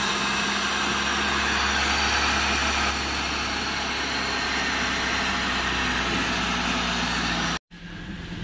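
Old-model Maruti Suzuki WagonR's 16-valve four-cylinder petrol engine running steadily, easing slightly about three seconds in. It now starts and runs because the broken camshaft position sensor wire has been rejoined. Near the end the sound drops out briefly and then comes back quieter.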